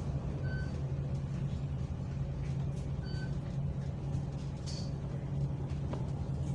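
Bus engine running steadily with a low hum, with two faint short beeps about two and a half seconds apart.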